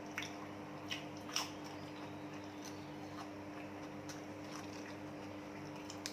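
A person eating: a few soft clicks and smacks, three of them in the first second and a half, with faint chewing, over a steady low electrical hum.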